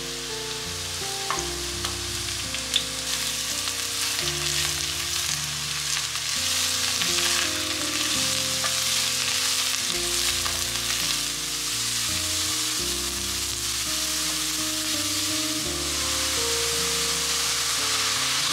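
Shimeji mushrooms sizzling as they sauté in a pot, the sizzle growing louder over the first few seconds, with a couple of light clicks early on. Slow, soft melodic background music underneath.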